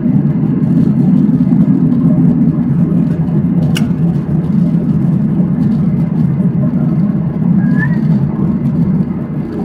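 Steady cabin noise inside a Boeing 737-800: an even rumble of engines and airflow, with one sharp click about four seconds in.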